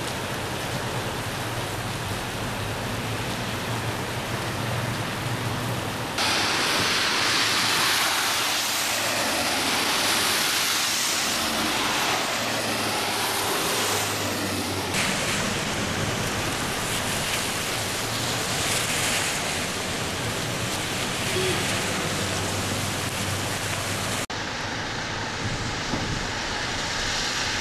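Steady rush of rain and running rainwater, changing abruptly three times where the recording cuts between shots.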